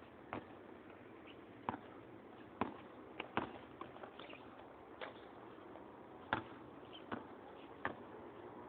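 Scattered sharp knocks of a basketball game: a ball bouncing on the court and players' footsteps, about ten irregularly spaced hits.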